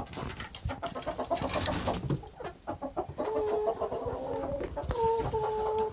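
Chickens clucking, with scattered light knocks in the pen. From about three seconds in, a hen gives a long, steady, drawn-out call with a couple of short breaks.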